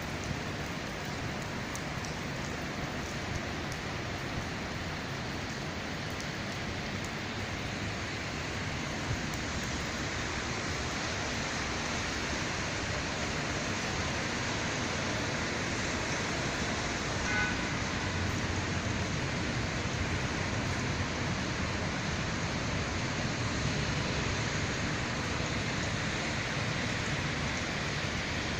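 Steady rain falling, a continuous even hiss that grows slightly louder toward the end.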